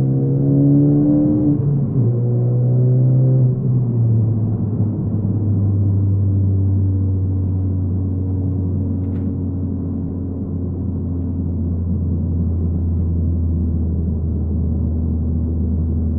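2015 Ford Focus ST's turbocharged 2.0-litre four-cylinder through a Roush exhaust, heard from the driver's seat. The engine note rises for the first couple of seconds, drops at a gear change, then settles into a steady low hum as the car cruises. This is the exhaust drone the owner complains of at highway speeds and low rpm.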